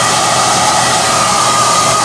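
SOUNATE high-airflow hair dryer (XM-H008/YX-HM008-G) running steadily: a loud rush of air with a steady high whine over it.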